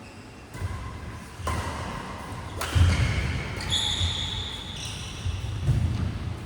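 Badminton doubles rally: sharp racket-on-shuttlecock hits, players' shoes squealing on the court floor, and footsteps thudding.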